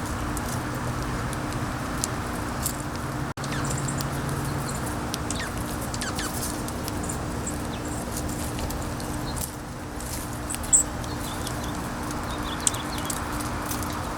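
Small birds chirping in short, quick calls over a steady rush of wind, with a low steady hum underneath; one sharper, louder chirp comes near the end.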